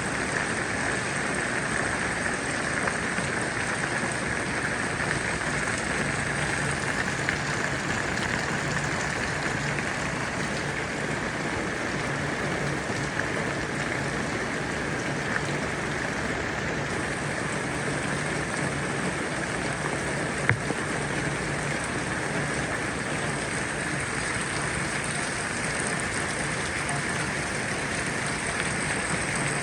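Steady rain falling, an even hiss with no letup. A faint low hum comes and goes under it, and there is one sharp tap about two-thirds of the way through.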